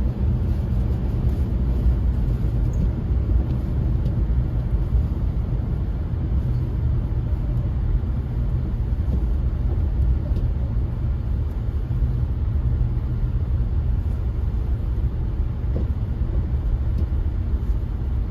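Steady low rumble of a car driving, heard from inside the cabin: engine and tyre noise on a snowy, icy road.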